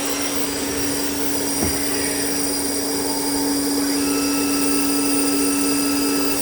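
Steady mechanical hum and whir of running machine-shop equipment, with a single brief knock about a second and a half in.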